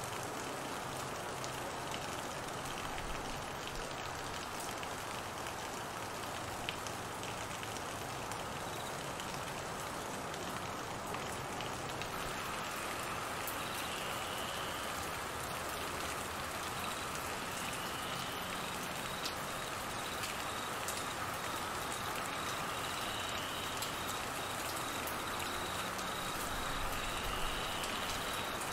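Steady rain falling on trees and grass, an even hiss. About halfway through, crickets join with a steady trill, and a short rising chirp repeats every four or five seconds.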